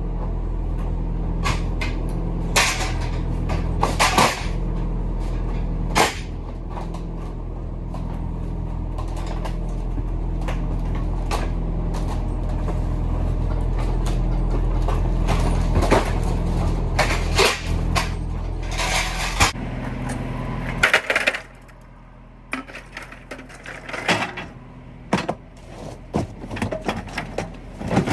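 A steady low engine drone with frequent clunks and knocks over it. The drone cuts off suddenly about two-thirds of the way through, leaving scattered knocks and rattles.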